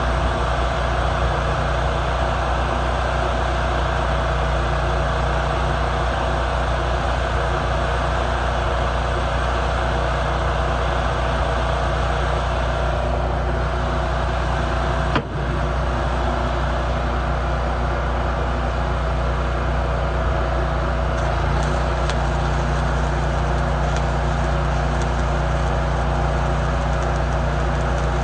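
A machine running steadily: a low hum with a steady hiss over it, broken by one short click about fifteen seconds in.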